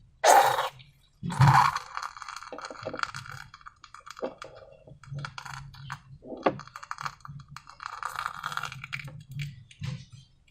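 Slime being handled, with wet crackling and small clicks and pops. Two sharper, louder crackles come in the first second and a half.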